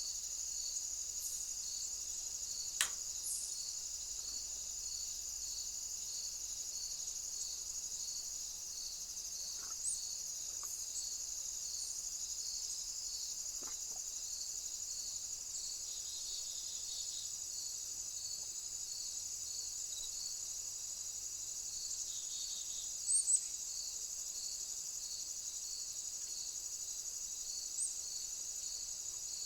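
Chorus of crickets or similar insects: a steady high trill with regular pulsed chirps, about two a second. A few brief, very high chirps stand out over it, the loudest a little past the middle, along with one sharp click about three seconds in.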